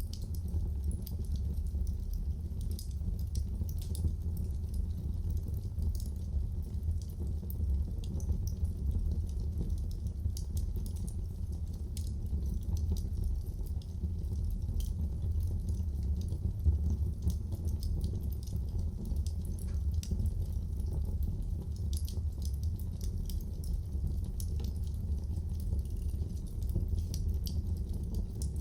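Wood fire burning in a fireplace: a steady low rumble of the flames with frequent small crackles and pops, one a little louder about halfway through.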